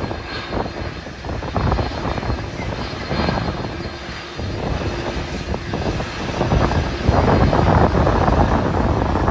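Airliner engines running, heard through heavy wind buffeting on the microphone, getting louder about seven seconds in.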